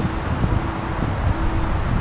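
Wind buffeting the microphone in a steady low rumble with irregular gusts, and a faint hum that comes and goes.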